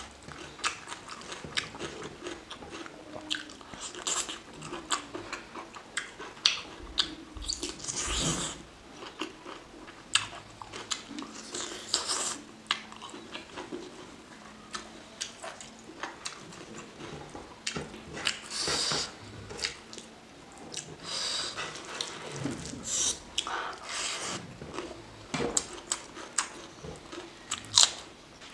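Close-miked chewing and biting of chicken curry with rice: a steady run of wet mouth clicks and smacks, with several louder, longer crunchy bites spaced through.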